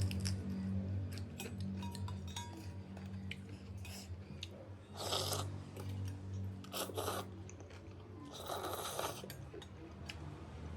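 Eating a bowl of pork thukpa noodle soup: three short, loud slurps of noodles and broth about halfway in, with chewing and small spoon-and-bowl clicks between them. A steady low hum runs underneath.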